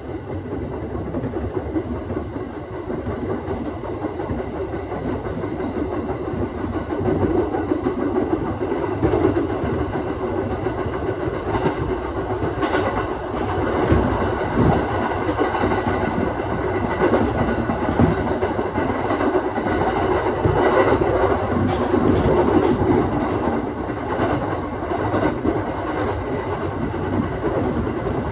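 Aoimori Railway 701-series electric multiple unit running along the line, heard from inside the train: steady running noise with wheels clacking over rail joints, growing a little louder over the first several seconds.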